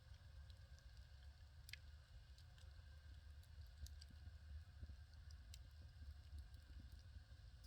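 Firewood fire burning, faint, with scattered sharp crackles and pops, the strongest a little under two seconds in, over a low steady rumble.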